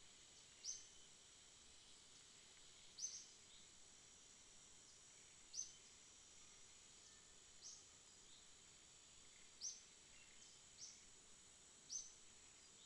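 Faint night ambience: a steady high insect drone, with short sharp chirps about every two seconds.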